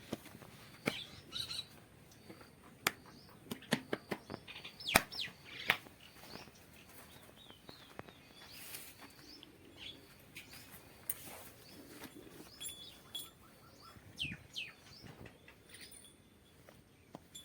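Birds chirping and calling on and off, short notes sliding downward, among scattered sharp clicks and knocks, the loudest about five seconds in.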